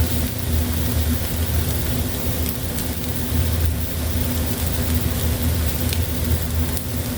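Eggs sizzling in a frying pan, a steady crackling hiss, over a constant low hum with a few faint ticks.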